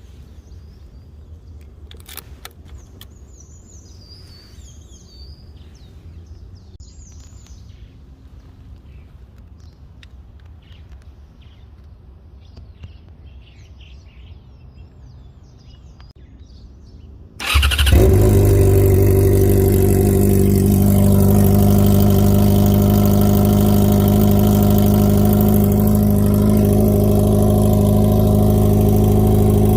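Birds chirp faintly over a quiet background. About two thirds of the way in, a Jaguar XJ6's six-cylinder engine starts abruptly and settles into a loud, steady run.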